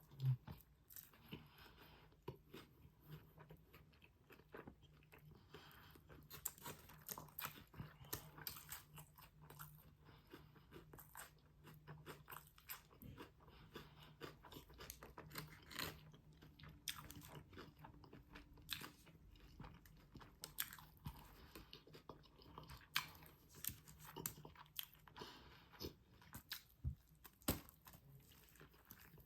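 A person chewing and crunching food close to the microphone, with many small, irregular crunches throughout.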